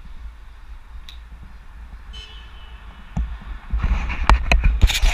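Low wind rumble on a bicycle-mounted action camera's microphone, with a brief squeak about two seconds in. From about four seconds, a run of loud sharp knocks and rustling.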